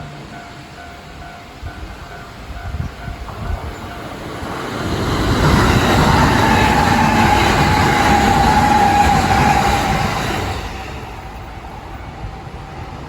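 Kintetsu Osaka Line train passing over a level crossing: it builds from about four seconds in, passes loudly for about five seconds with a steady whine that drops slightly in pitch, then fades away. A level crossing warning bell rings at first.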